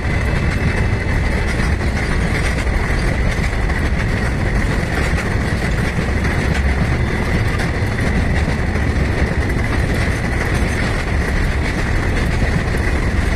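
Freight train of hopper wagons rolling past at speed: a loud, steady rumble of wagon wheels on the rails, with a steady high-pitched ring over it.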